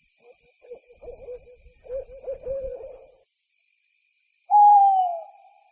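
Wolves howling: wavering, warbling howls for the first few seconds, then one louder, short howl falling in pitch near the end.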